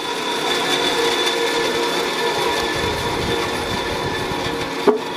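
Steady machine noise with a high whine running through it, and one sharp knock near the end.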